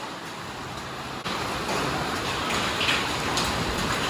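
Heavy rain falling in a steady hiss, which jumps suddenly louder about a second in, with a few faint ticks of drops or hail striking.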